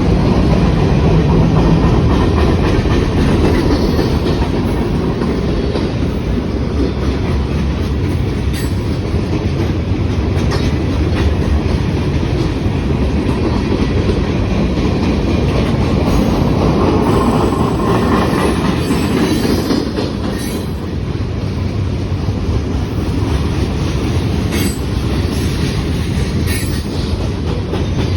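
Freight train rolling past at close range: a steady, loud rumble of car wheels on the rails, with intermittent clicking as the wheels cross rail joints.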